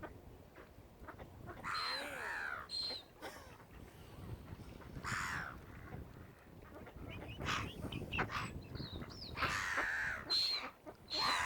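Waterbirds calling: a string of harsh, repeated calls from several birds, with short high notes among them.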